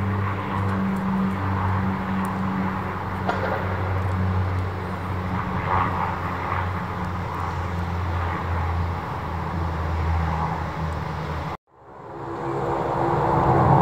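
Saab 340B turboprop's propellers and engines running with a steady low hum. It cuts off suddenly near the end, and a jet airliner's engine noise swells up.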